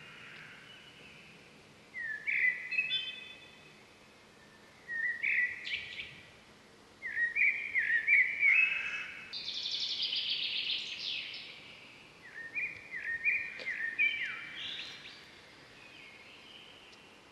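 Songbird singing in several short bursts of quick chirping, whistled notes separated by pauses, with a longer, fuller burst in the middle. A faint steady outdoor background lies underneath.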